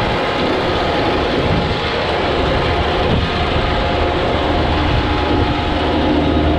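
John Deere tractor running steadily on the move, a constant engine drone over a deep low rumble.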